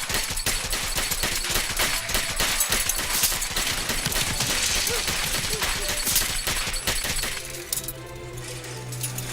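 Rapid, sustained gunfire, many shots a second, over a film score. The firing stops about seven and a half seconds in, leaving the music.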